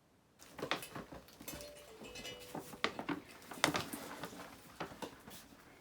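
Paper crinkling and rustling as birthday presents are unwrapped: a quick run of sharp crackles that starts about half a second in, with a brief faint steady tone in the middle.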